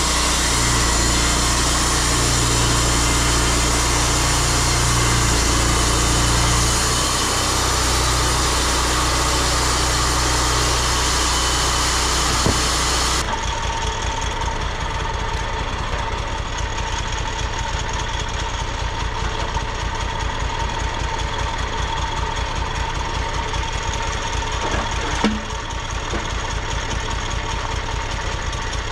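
Sawmill's small gas engine running, loud with cutting noise for about the first thirteen seconds, then abruptly settling to a duller, quieter running with a quick even pulse, like an idle.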